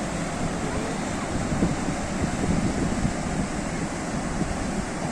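Sea waves washing in, a steady rushing of surf with wind buffeting the microphone.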